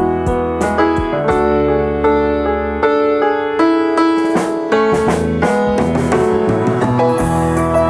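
Instrumental piano music: a piano melody with sharply struck notes over long, held bass notes.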